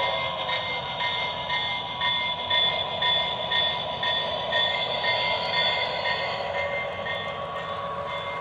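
Lionel Railsounds system in a toy O gauge GP38 diesel locomotive playing recorded diesel locomotive sounds through the model's small speaker, with a short tone repeating about twice a second.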